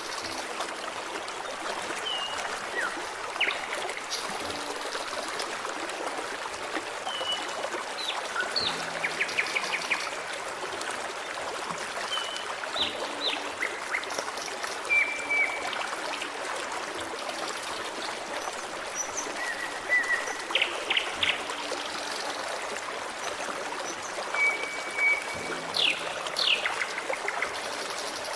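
Forest stream running steadily, with birds chirping over it in short high whistled notes and quick downward-sweeping calls every few seconds.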